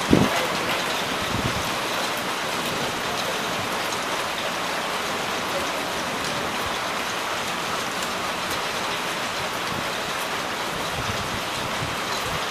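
Heavy rain falling steadily, an even hiss. There is a brief low thump right at the start and a smaller one about a second and a half in.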